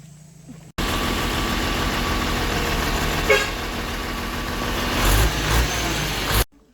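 Steady loud noise of a running motor vehicle, with a brief horn toot about three seconds in and heavier rumble near the end; it starts and stops abruptly.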